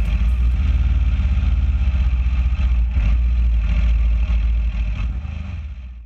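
Aprilia Dorsoduro 1200's V-twin engine running as the bike rolls slowly into a gravel parking area, a steady pulsing rumble heard from a camera mounted on the bike. It fades out near the end.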